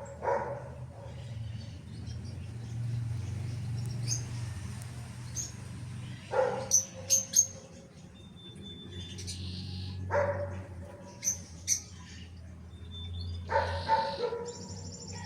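A dog barking a few times, single barks several seconds apart, with short high bird chirps in between.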